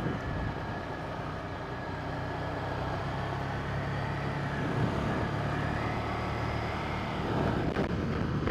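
Ducati Monster 797's air-cooled L-twin engine running while riding, its note creeping up slowly through the middle and dropping off near the end.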